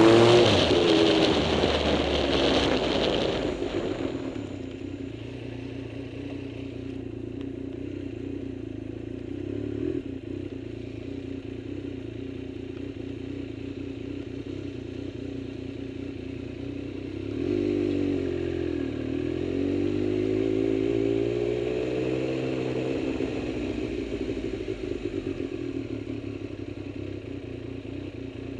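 A vehicle engine running, its revs rising and falling in the first few seconds and again about two-thirds of the way through, and holding steady in between.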